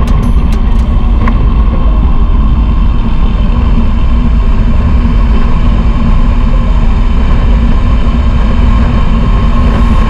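Royal Enfield Himalayan 411's single-cylinder engine running steadily at road speed under way, a loud, even low rumble with road and wind rush.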